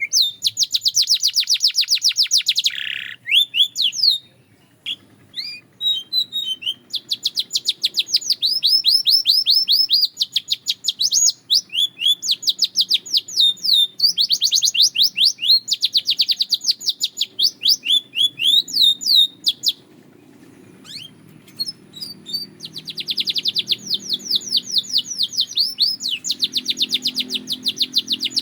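Canary singing: long phrases of fast, rapidly repeated trill notes, broken by short pauses about four and twenty seconds in.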